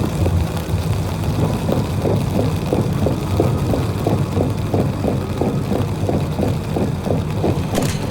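A vehicle engine running with a steady low rumble, with a quick regular ticking of several ticks a second over it.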